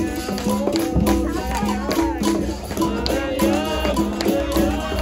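Live capoeira roda music: berimbau notes alternating between two pitches over a steady low drum beat and shaker rattles, with voices singing over it.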